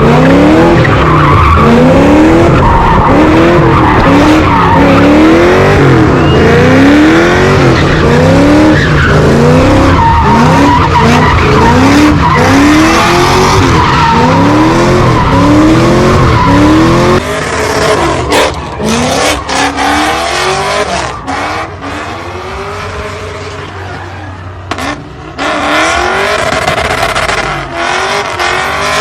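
A car doing donuts, its engine held high with the pitch rising and falling about once a second as it circles, over the steady hiss of spinning, sliding tyres. About seventeen seconds in, the sound drops in level and becomes more broken and distant.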